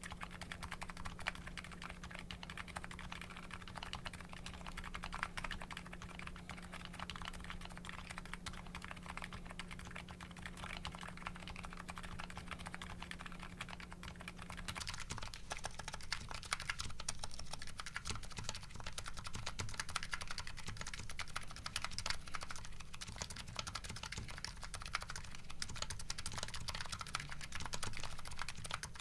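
Continuous typing on a Nuxros Kraze custom keyboard with MetaPulse electrocapacitive switches, a steady stream of keystrokes. About halfway through, the key sound changes as the keycap set changes from GMK Hennessey to JCS Arabic.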